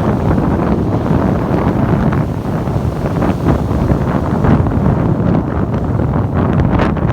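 Strong wind buffeting the microphone, a loud, steady rumble that flutters without letting up.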